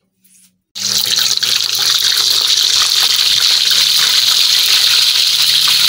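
Chicken leg quarter frying in hot oil in a wok: a loud, steady sizzle that starts abruptly under a second in.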